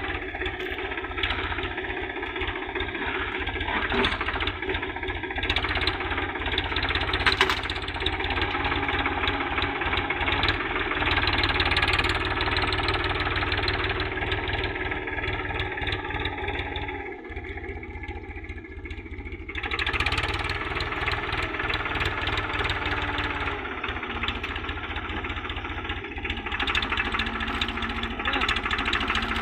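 Tractor engine running steadily, dropping in level for a couple of seconds about two-thirds of the way through before picking up again.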